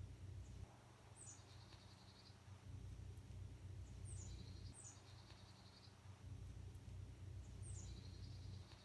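Faint bird calls: a phrase of quick high notes falling in pitch, then a short rapid trill, repeated three times at intervals of about three seconds. A low steady hum runs underneath.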